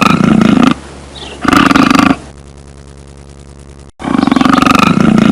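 Cougar growling: three harsh, rasping calls, the first ending just under a second in, the second about a second and a half in, and the third starting about four seconds in, with a quieter stretch between the second and third.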